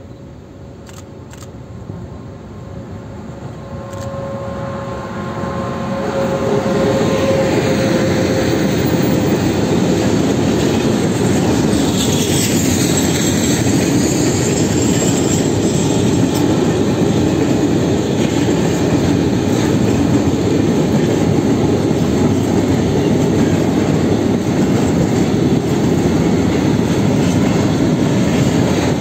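Freight train of covered grain hopper wagons approaching and passing close by: the sound builds over the first six seconds, then holds as a steady, loud rumble and rattle of wheels on rail as the wagons roll past. A faint, slightly falling tone rings during the approach.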